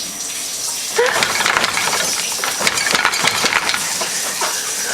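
Dishes and plates clinking and knocking as they are handled, a string of light clinks starting about a second in.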